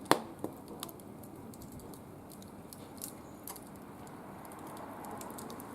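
Wood fire crackling: one loud pop just after the start, then scattered small crackles over a low steady hiss.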